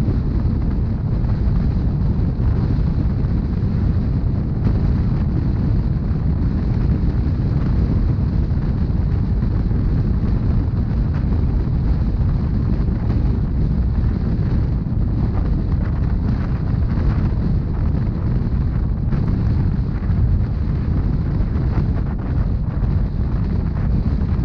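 Rhaetian Railway narrow-gauge passenger train running, heard on board: a loud, steady low rumble with wind noise and a few faint clicks in the second half.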